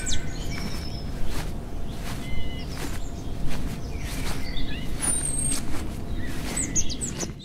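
Birds chirping with short, scattered calls over a steady low outdoor rumble, ending abruptly.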